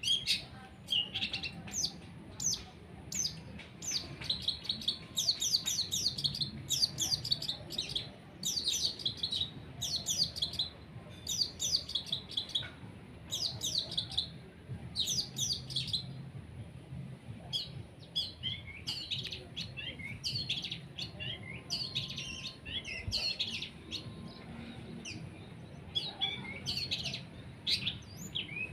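Long-tailed shrike (cendet) singing a rapid, varied chatter of sharp, high chirps in quick repeated bursts, with a short pause about halfway through.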